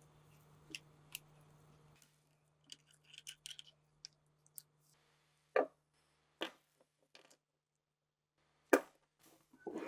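Irregular sharp clicks and knocks of small parts being handled and set down, with three louder knocks about halfway through and near the end. A faint steady hum stops about two seconds in.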